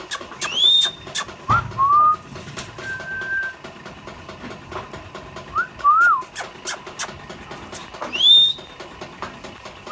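Indian ringneck parakeet whistling and calling: two loud, sharply rising whistled calls, about a second in and again near the end, with shorter, lower whistled notes between them and scattered sharp clicks.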